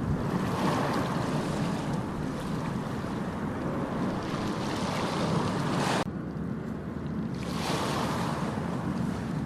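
Ocean surf washing onto a beach, a steady rush that swells and falls, with wind buffeting the microphone. The sound cuts off abruptly about six seconds in, and a new wave surges in a second or so later.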